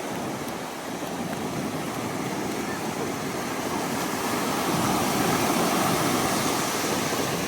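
Ocean surf breaking and washing up the beach, a steady rush that swells about halfway through and eases slightly near the end.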